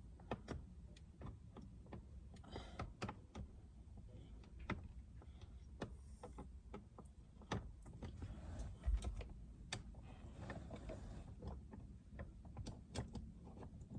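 Scattered small clicks, taps and scrapes of a flathead screwdriver prying at a steering-wheel airbag retaining pin, with one dull knock about nine seconds in.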